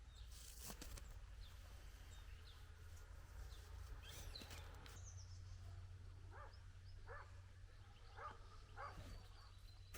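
Faint outdoor ambience with four short animal calls in the second half.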